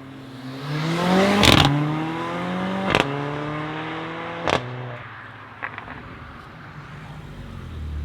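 A car accelerating away hard through the gears: the engine note climbs, drops at each upshift and climbs again, with a sharp crack at each of three shifts about a second and a half apart, then fades into the distance. Another engine idles in low near the end.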